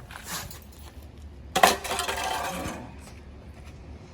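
Sharp metallic clanks of tools and metal parts. A small clink comes near the start, and a loud strike about a second and a half in is followed by about a second of rattling metal.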